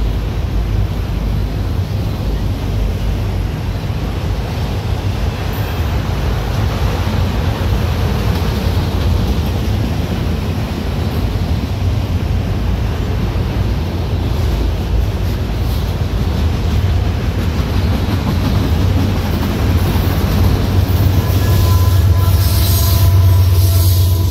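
Freight train of autorack cars rolling past: a steady rumble of steel wheels on rail. Near the end it grows louder and a high whine of several steady tones joins in as a locomotive at the rear of the train comes by.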